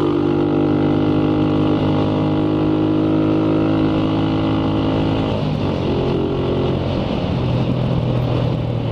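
Motorcycle engine running steadily while riding, heard from the bike with road and wind noise. Its note shifts about five seconds in and then settles again.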